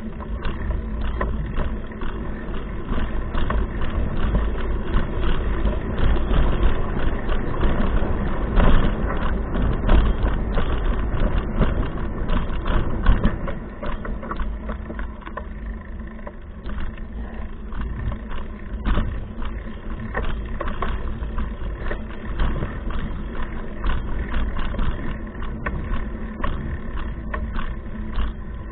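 Wind buffeting a bicycle's handlebar-mounted GoPro microphone as a low rumbling noise, with the bike's rattles and knocks over the ground as many short clicks.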